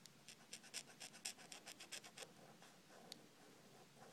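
Faint, quick scribbling of a colouring tool on paper as a drawing is coloured in, about six strokes a second, thinning out after about two seconds, with one sharper tick about three seconds in.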